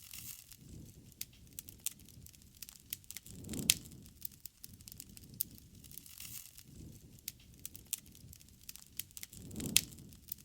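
Wood campfire crackling and popping over the low rush of the flames, with two louder pops about six seconds apart.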